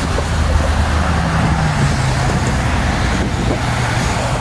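Road vehicle noise: a steady low engine hum with a slightly shifting tone over a constant hiss of tyres or wind.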